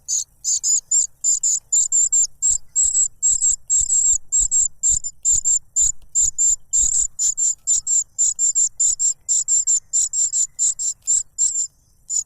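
Cuckoo chick begging for food: a rapid, unbroken series of short, high, sharp calls, about four a second, pausing only briefly near the end.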